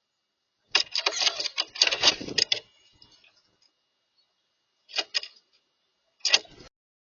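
Rapid clattering and scraping at a backyard bird feeder, a dense run of knocks lasting under two seconds about a second in, then two short clatters later.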